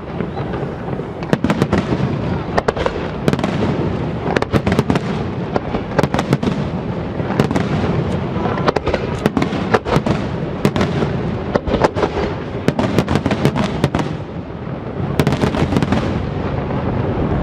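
Fireworks display at its height: a dense barrage of aerial shell bursts, many sharp bangs in quick succession over a continuous rumble and crackle.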